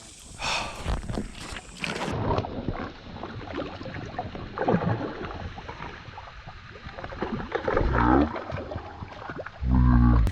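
Creek water splashing and sloshing, with irregular knocks and rustles, as a hooked bass is fought in.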